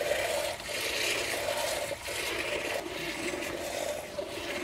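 A cow being hand-milked: jets of milk squirting from the teats into a bowl already partly full of milk, a repeated hissing spray.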